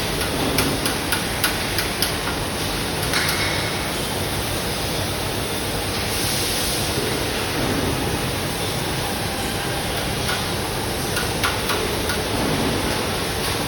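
Robotic MIG welding arc running steadily, a continuous hiss with scattered sharp crackles of spatter.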